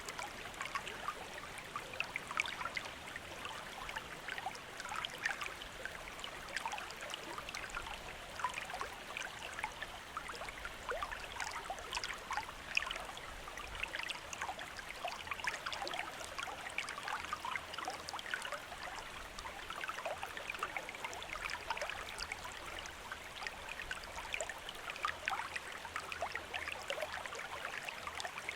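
Shallow stream running steadily: water trickling and gurgling over stones, with constant small splashes.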